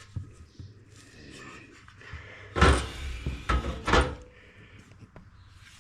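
A few knocks and clatter: a loud burst about two and a half seconds in, then two sharp knocks about half a second apart, over low handling noise.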